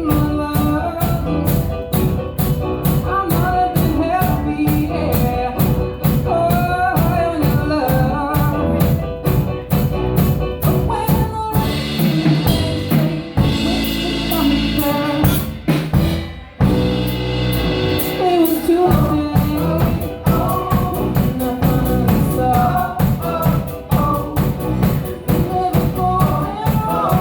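A band song with a steady drum-kit beat and a sung vocal line. The drums drop out for a few seconds about halfway through, then the beat comes back.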